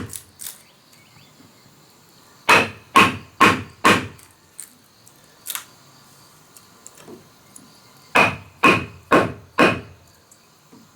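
A hand tool striking wood in two sets of four blows, about two a second, each blow with a short ringing note. One set comes a couple of seconds in and the other near the end.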